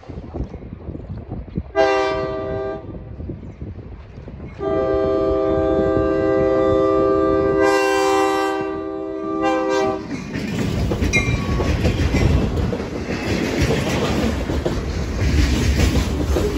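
Diesel freight locomotive's horn: a short blast about two seconds in, then a long blast held for about five seconds. Then the rumble of the train closing in and rolling past, locomotives and freight cars with wheels clacking over the rail joints, growing louder toward the end.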